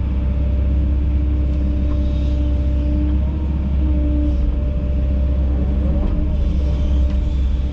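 Kobelco SK210 excavator's diesel engine running steadily with a deep rumble and a constant hum.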